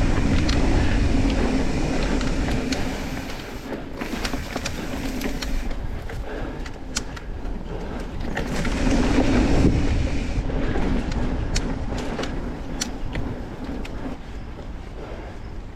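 Mountain bike descending a dirt trail: rough rumble of tyres and wind on the camera microphone, swelling twice, with many sharp clicks and rattles from the bike over the bumps.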